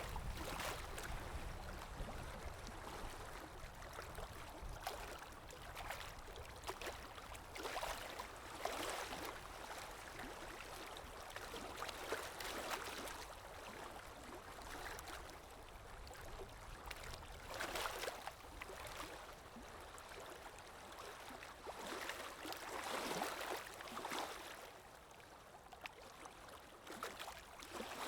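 River water lapping and rippling, a soft wash that swells and fades irregularly every second or two.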